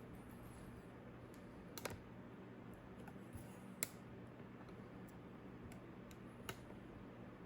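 A few scattered key or button clicks on a laptop, three sharper ones about two seconds apart, with lighter ticks between, over a faint steady hum.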